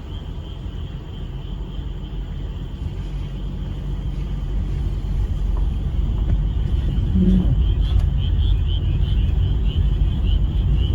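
A frog chorus, a steady pulsing high-pitched calling, under a heavy low rumble that grows louder over the second half.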